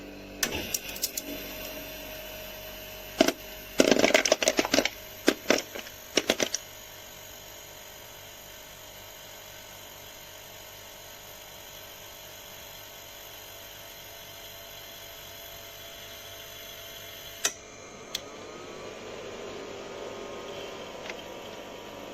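Small countertop ice maker running with a steady hum. A burst of hard clattering knocks comes a few seconds in, with a single click later on.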